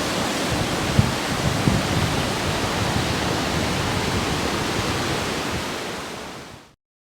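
Waterfall rushing: a steady, dense noise of falling water, with a couple of low thuds about a second in, fading out near the end.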